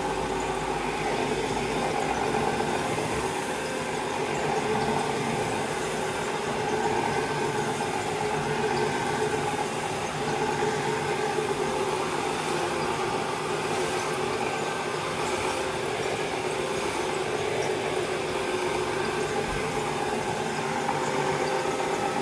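Carpet-cleaning machine running steadily: a constant motor whine over an even hiss, with no change in pitch or level.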